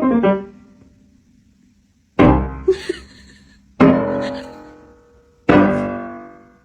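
Piano chords struck three times, about a second and a half apart, each ringing and fading away before the next; an earlier phrase dies out at the start.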